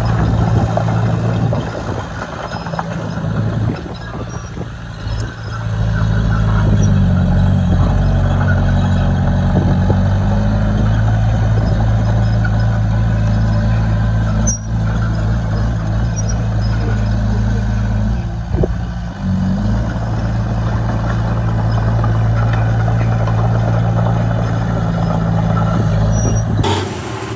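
Heavy diesel engine of earthmoving machinery running steadily, its pitch and load shifting a few times. A single sharp click about halfway through, and the sound changes abruptly just before the end.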